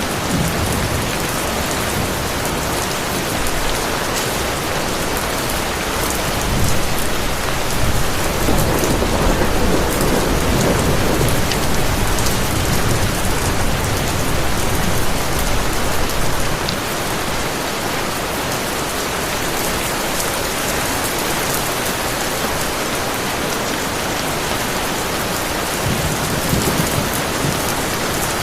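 Heavy rain as a steady, even hiss. A low thunder rumble swells up about a quarter of the way in and lasts several seconds, with a briefer rumble near the end.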